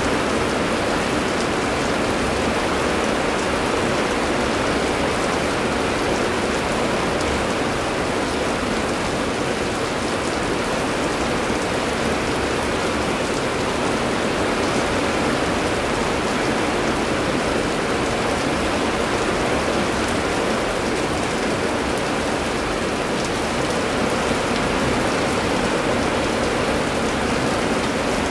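Heavy rain falling steadily, an even hiss of rain pattering on surfaces.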